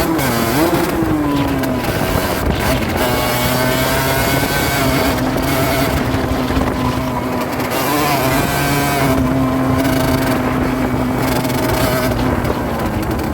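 Rieju Drac 50's two-stroke 50cc engine running under way. The engine note falls just after the start, then holds fairly steady with small rises and falls, and drops again near the end.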